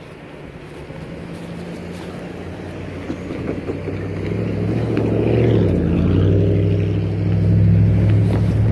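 Diesel freight locomotive approaching, its deep engine drone growing steadily louder and peaking in the last few seconds.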